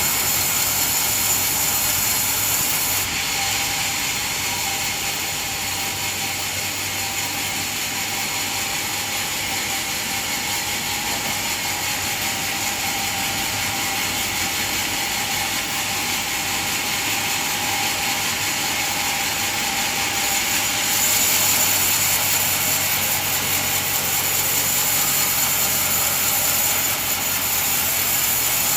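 Band sawmill running, its blade sawing through a coconut log: a steady mechanical drone with a hiss on top. It grows louder and hissier about two-thirds of the way through.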